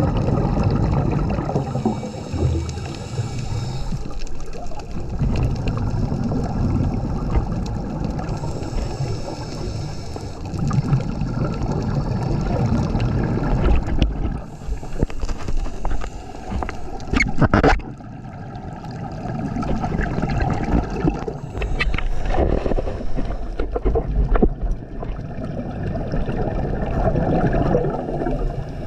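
Underwater scuba diving sound: bubbles from divers' regulator exhalations, gurgling and rumbling in waves every several seconds, with a few sharp clicks partway through.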